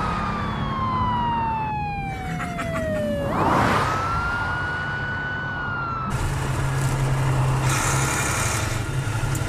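Police car siren wailing over a car engine running: its pitch falls slowly for about three seconds, then sweeps quickly back up and holds.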